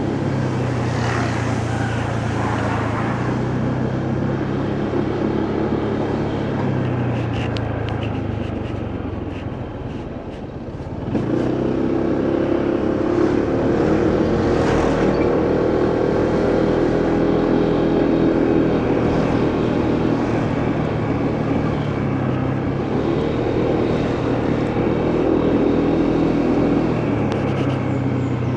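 Motorcycle engine running while riding, with wind and road noise. It eases off and drops in level about ten seconds in, then picks up again a second later and runs louder, with a smaller dip and rise in the later part.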